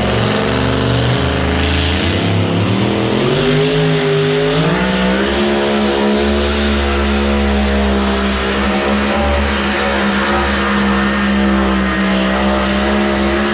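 High-horsepower competition pulling engine running flat out under load down the track, loud throughout; its pitch climbs from about two to five seconds in, then holds high and steady.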